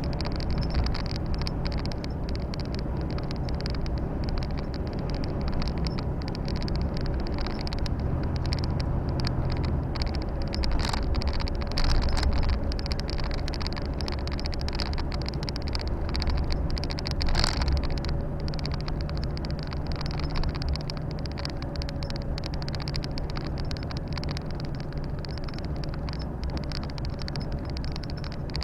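Volvo FH 460 truck's 13-litre six-cylinder diesel engine running steadily under way, with road and tyre noise heard from the cab. Two brief knocks come through, one near the middle and one a few seconds later.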